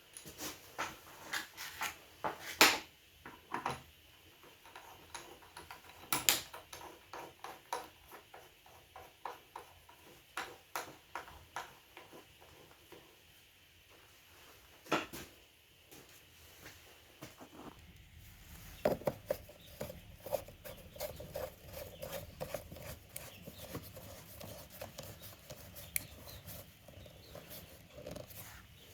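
Irregular tapping and clicking with a few sharper knocks; about two-thirds of the way in, a low steady hum with a faint tone joins under the continued clicks.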